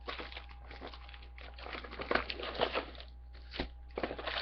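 Plastic wrapping and card packs crinkling and rustling in a run of short, irregular crackles as a sealed hobby box of trading cards is opened and emptied.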